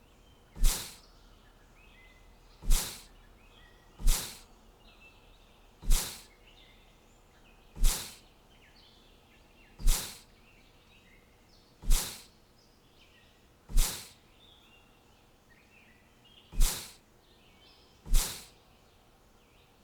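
Faint bird chirps under a sharp noisy burst that repeats about every two seconds, ten times, each one loud and fading within a fraction of a second.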